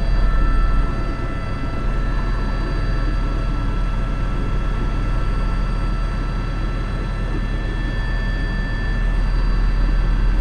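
Airbus H125 (AS350 B3) helicopter in flight: a steady turbine whine over the rotor's fast low beat.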